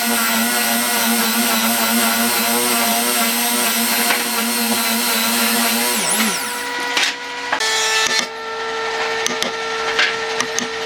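Electric woodworking power tool motor running at a steady pitch, spinning down about six seconds in. A higher-pitched motor tone then runs steadily, with scattered knocks of wood being worked.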